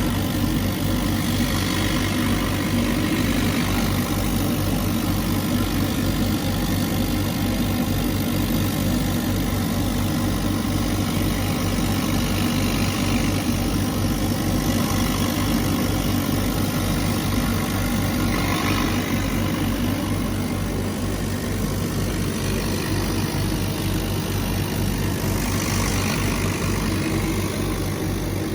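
CNC laser cutter running while cutting pine: a steady machine hum with a low, fast pulse, and a few brief higher whirring swells from the moving head.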